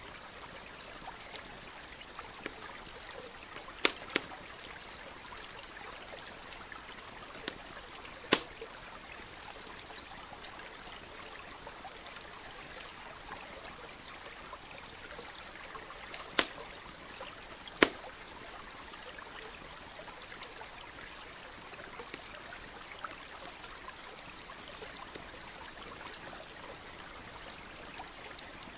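Campfire crackling, with scattered pops and a few loud snaps, over the steady rush of a nearby stream.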